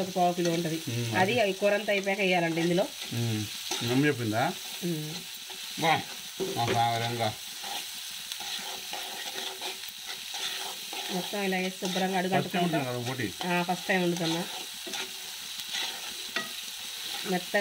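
Boti (goat intestine) frying and sizzling in a pan while being stirred, with pitched, wavering sounds coming and going over it.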